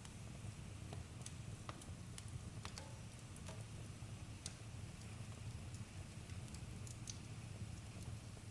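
Campfire crackling: scattered sharp pops and snaps of burning wood over a faint, steady low rumble of the flames.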